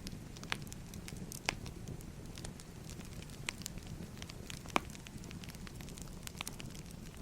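Wood fire crackling: a steady low rumble of burning logs with irregular sharp pops and snaps, the loudest about a second and a half in and near five seconds.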